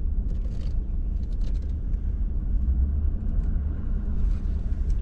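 Low, steady rumble of a truck driving slowly, heard from inside the cab, with a few faint crackles.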